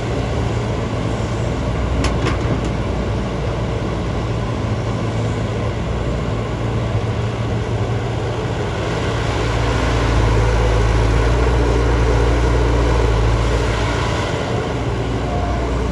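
JCB JS205 tracked excavator's diesel engine running steadily, getting a little louder for a few seconds past the middle. A short sharp click about two seconds in.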